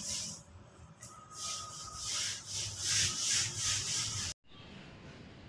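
Repeated rustling, rubbing swishes, like handling or movement against cloth or leaves, then an abrupt cut to a quiet background a little over four seconds in.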